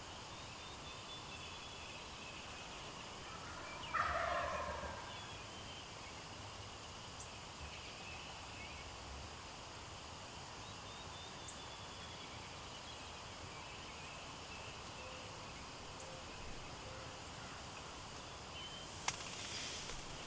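A wild turkey gobbler gobbling once, a short rattling call about four seconds in.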